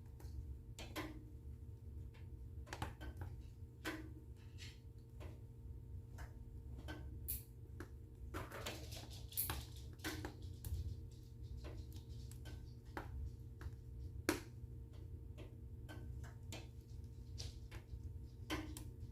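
Wood fire burning in a fireplace, crackling with irregular sharp pops over a low steady rumble. There is a short burst of hissing about halfway through.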